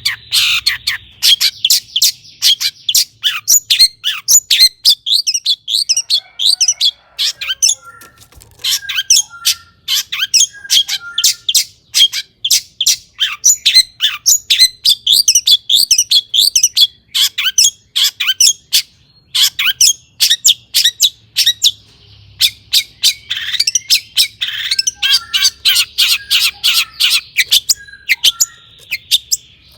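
Long-tailed shrike (cendet) singing a fast, chattering run of sharp, high notes, about four or five a second. The song comes in long bursts broken by a couple of short pauses, with softer, lower notes mixed in.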